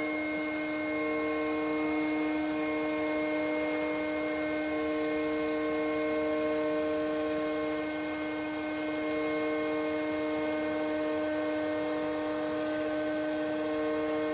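Electric air pump running steadily, inflating an inflatable boat's tubes: an even motor hum with a pitched whine whose upper tones waver on and off.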